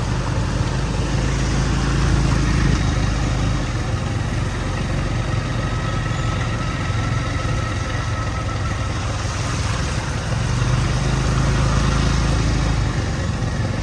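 A motor vehicle's engine running steadily, growing louder twice.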